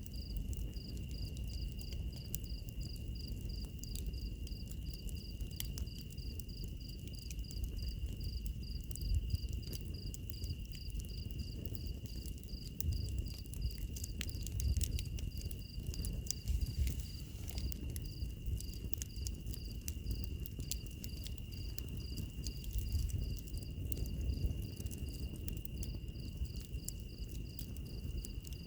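Wood fire crackling with scattered sharp pops over a low rumble, mixed with insects: one steady high trill and a higher, regularly repeating chirp.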